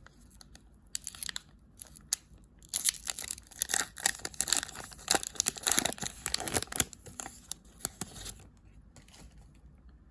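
Upper Deck hockey card pack wrapper being torn open and crinkled by hand, a burst of crackling rustle through the middle few seconds with scattered ticks around it.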